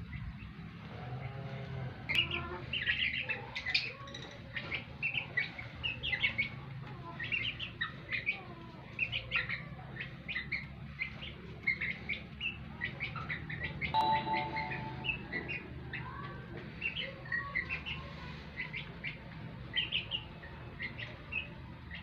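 Birds chirping over and over in many short, high notes, with a low steady hum underneath and a brief lower call about two-thirds of the way through.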